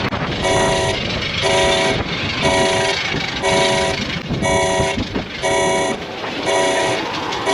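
Alarm horn sounding in regular pulses, a half-second blast of several steady tones about once a second, over a continuous rushing noise.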